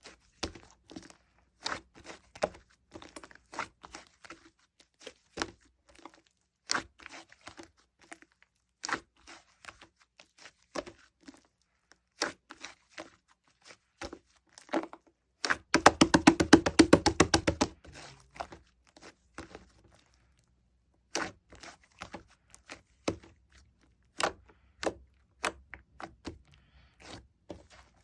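Slime being pressed and poked by hand: scattered sticky clicks and pops, with a dense run of rapid crackling pops for about two seconds just past the middle.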